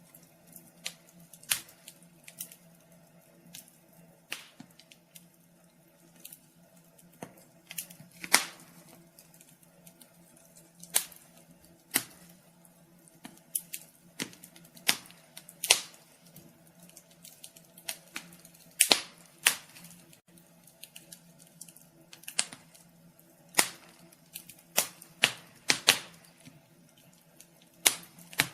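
Wood fire crackling in a fireplace: irregular sharp pops and snaps of varying loudness over a faint, steady low hum.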